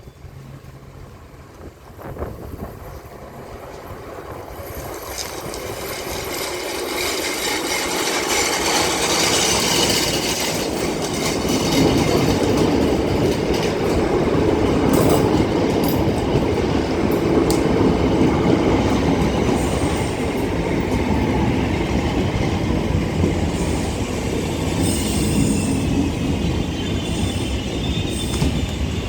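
An electric train on the Cross City Line approaching the platform, growing steadily louder over about ten seconds and then running with a steady loud rumble of wheels on rails. Faint falling squeals come in near the end.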